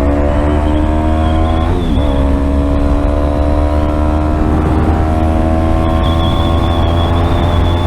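Yamaha R3 parallel-twin motorcycle engine under way, its note rising slowly as the bike gains speed, with a brief dip in pitch about two seconds in as the throttle is eased and reopened. A heavy steady low rumble runs underneath.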